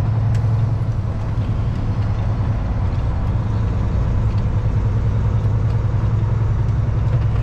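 Kenworth W900L semi truck's Cummins X15 diesel engine running steadily with a low drone.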